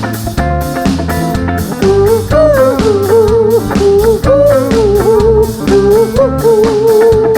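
Live rock band playing a disco-rock groove on drum kit, bass and electric guitar, with a held, wavering lead melody on top.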